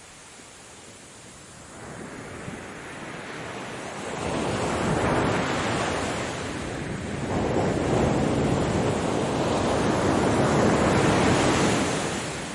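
Ocean waves breaking and washing onto the shore as a rushing surf. It swells twice, about a second in and again past the middle, and falls away near the end.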